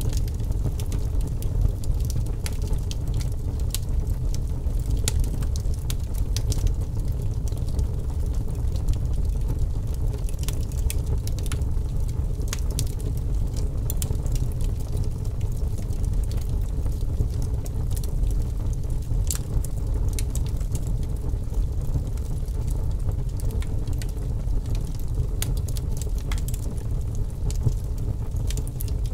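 Fire burning in a fireplace: a steady low rumble with frequent sharp crackles and pops scattered irregularly throughout.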